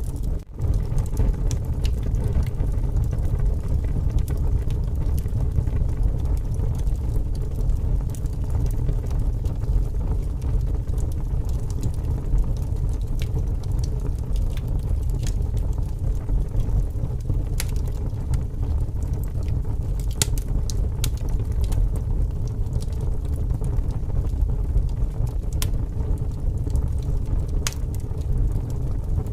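Wood fire crackling with scattered sharp pops over a steady low rumble of strong wind. The sound dips out briefly about half a second in.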